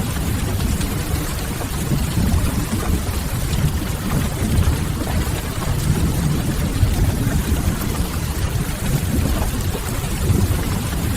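Ambience mix of steady rain on a window with a soft crackling wood fire, over a deep, even rumble.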